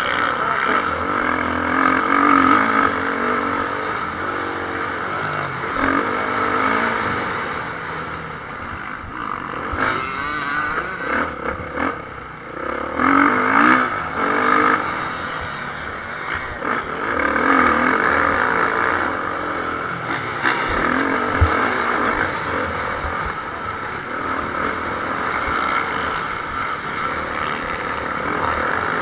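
Several motocross motorcycles racing, engines revving up and dropping back again and again as riders go through the gears, with the loudest passes about halfway through.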